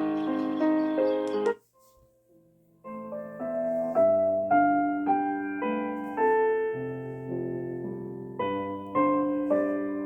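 Piano lullaby melody played through a small portable sound machine's speaker; it cuts off about a second and a half in, and after a short pause a piano melody starts up again.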